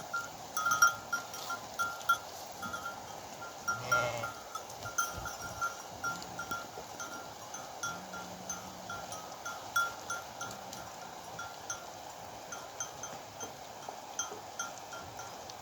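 Bells worn by a flock of sheep clinking irregularly as the animals move. A sheep bleats once about four seconds in.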